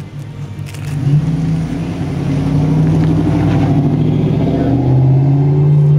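A car engine accelerating and getting louder, its pitch dropping about five seconds in.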